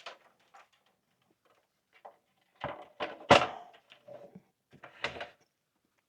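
Knocks and thunks of PlayStation 5 console parts being handled and set down during reassembly, with a few light clicks, then a cluster of heavier knocks about two and a half to three and a half seconds in and another about five seconds in.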